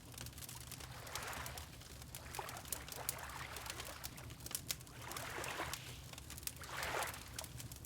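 Water lapping in soft, irregular swells every second or two, over the sharp, scattered crackle of a log fire and its steady low rumble.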